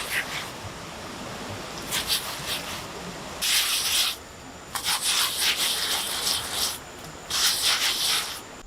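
Rough scraping in about four bursts of one to two seconds each, the longest near the middle.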